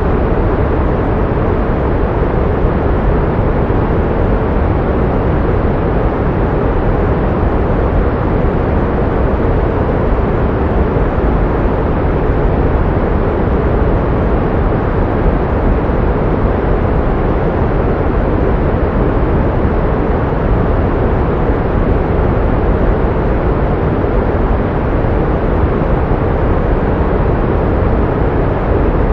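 Steady pink noise, an even rushing hiss that is strongest in the low end, fades toward the treble and does not change.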